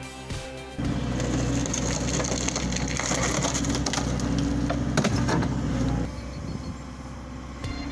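Firewood machine splitting logs: wood cracking and splintering over a steady low machine drone. The drone drops away about six seconds in, leaving quieter crackling, and the loud splitting picks up again at the very end.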